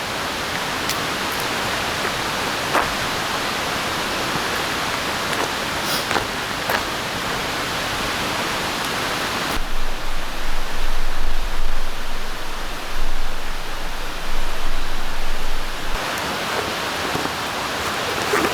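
Steady rain falling in a forest: a dense, even hiss with a few sharp drip ticks. For about six seconds in the middle the sound turns duller and more uneven, with a low rumble underneath.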